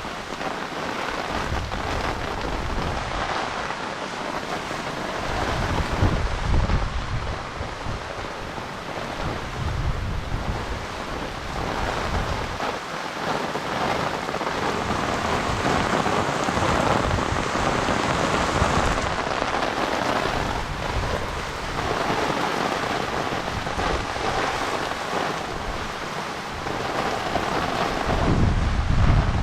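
Heavy rain pouring onto a fishpond's water surface: a dense, steady hiss, with irregular low rumbles that swell about six seconds in and again near the end.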